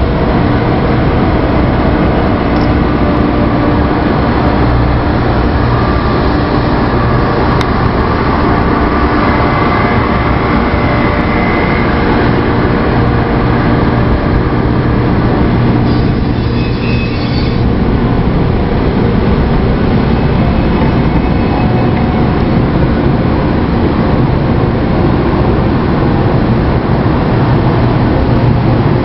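Shinkansen 300 series train moving across a level crossing: a loud, steady rumble with faint motor tones, and a short high-pitched sound about sixteen seconds in.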